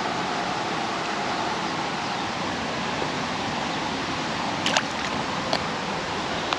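Creek water rushing steadily over rocks, a constant hiss of running water. Two or three small sharp clicks sound near the end.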